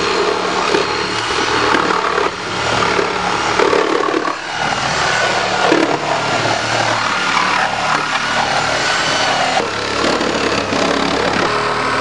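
Reciprocating saw cutting through a car's sheet-steel body: a continuous harsh rasping with a wavering high squeal from the blade on the metal.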